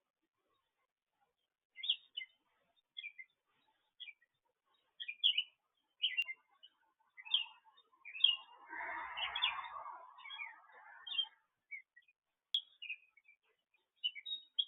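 Small birds chirping: short, high chirps repeated every half second or so after a quiet start, with a louder, rougher stretch of sound lower in pitch in the middle.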